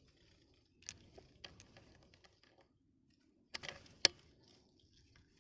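A few light clicks, then a short burst of rustling handling noise and a single sharp crack about four seconds in, the loudest sound.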